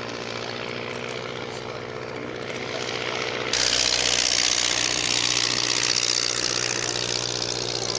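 Propeller aircraft engine running with a steady drone. About three and a half seconds in, the sound jumps suddenly louder, with much more hiss.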